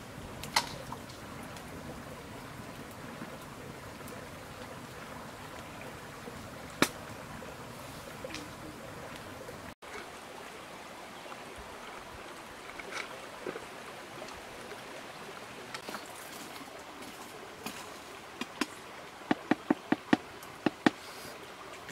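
Steady rushing of a stream's running water, broken by a few sharp clicks, with a quick run of clicks near the end.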